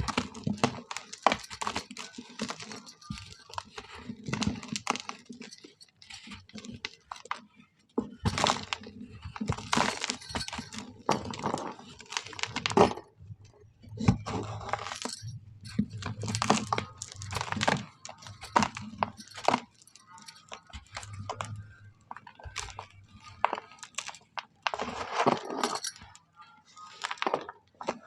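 Dry, hardened shapes of mud, charcoal and sand crumbling and breaking apart in a bowl, with gritty crunching and crackling in irregular bursts.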